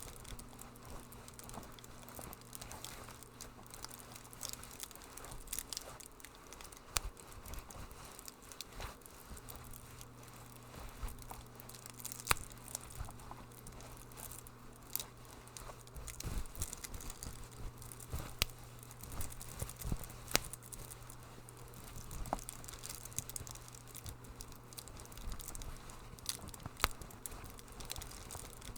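Wood fire crackling in a fireplace: irregular sharp pops and snaps over a soft hiss, with a steady low hum beneath.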